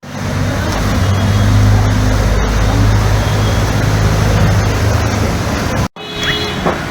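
A motor running steadily under a dense rush of water noise, as on a flooded road. It cuts off suddenly near six seconds in, and street traffic with short beeps follows.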